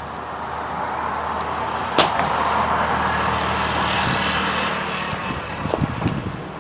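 A motor vehicle passing by, its engine and tyre noise swelling and then fading away over a few seconds, with a single sharp click about two seconds in.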